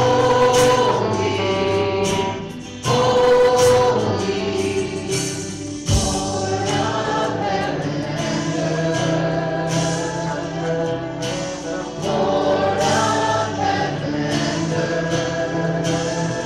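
Congregation or choir singing a hymn with instrumental accompaniment, in phrases of held notes with short breaks between lines.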